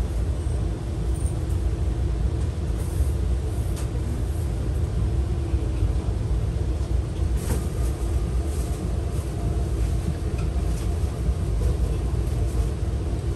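Steady low rumble of an E261-series electric express train, heard from inside the passenger car as it runs slowly alongside the platform on arrival, with a few faint clicks from the running gear.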